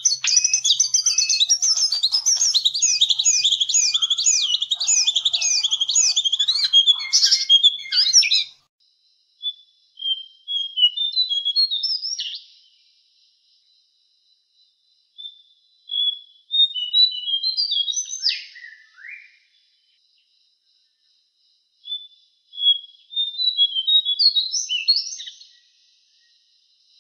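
Cingcoang (jongkangan) singing. A fast, continuous, high warbling song for the first eight seconds or so, then three short phrases of quick rising notes, each ending in a sharp downward slur, with pauses of a few seconds between them.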